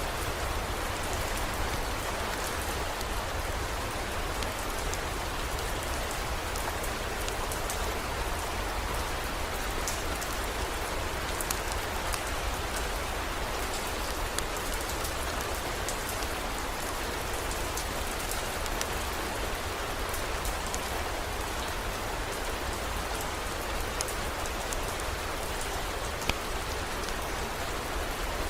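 Steady heavy rain, a constant hiss with scattered sharp drop ticks and a low rumble underneath.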